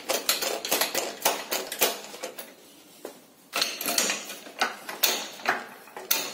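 Quick, irregular series of sharp metallic knocks, about four a second, pausing for about a second midway, from metal tools and sockets working against a new ball joint as it is forced into a Ford New Fiesta's lower control arm.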